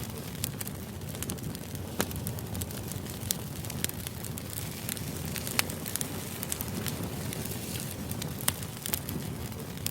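Crackling fire: a steady low rumble with irregular sharp pops and crackles, a few each second.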